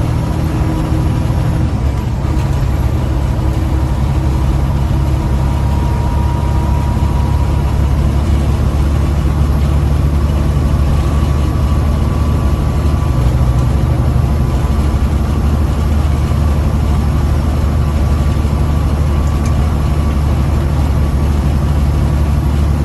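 Caterpillar diesel engine of a Freightliner Classic semi truck running steadily under a full load while driving, a constant low drone.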